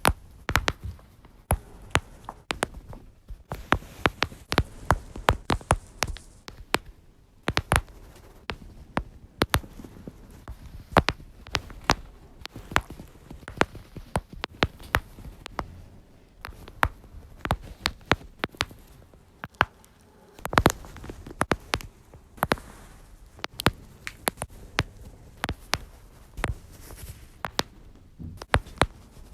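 Lower-back joints cracking: a long irregular series of sharp pops and clicks, often several in quick succession.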